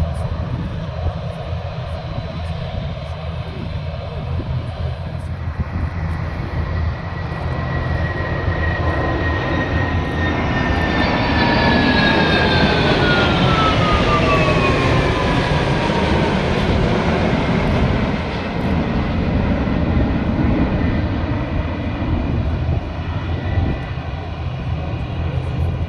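Jet aircraft passing by, loudest a little before midway. Its engine whine slides down in pitch as it goes past, over a steady low rumble.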